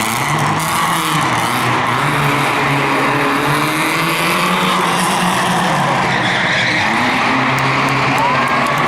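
A car drifting, its engine held at high revs with small rises and falls while the tyres skid and squeal; a sharper squeal rises near the end.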